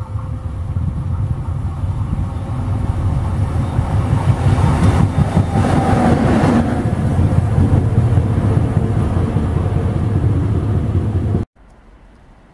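Electric locomotive-hauled train passing through the station at speed: a rumble that builds, is loudest as the locomotive goes by about halfway through, and carries on as the cars roll past. It cuts off abruptly near the end, leaving a faint background.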